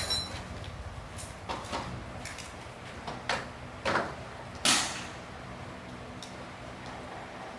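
A handful of irregular knocks and scrapes, the loudest about four and a half seconds in, over a faint steady hum.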